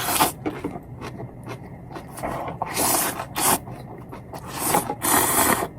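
Close-miked ramen eating: noodles or broth slurped in about three long pulls, with softer chewing sounds between them.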